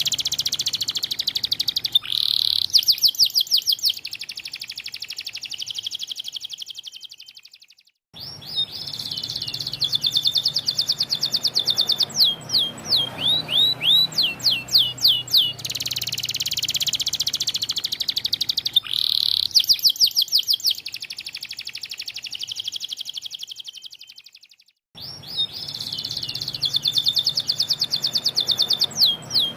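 White canary singing long phrases of rapid trills and quick repeated whistled notes, fading out and pausing briefly twice, about seven and about twenty-four seconds in.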